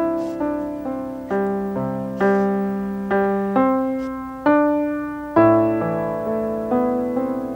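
Solo piano music, a slow melody of single struck notes that ring and fade, roughly one to two notes a second.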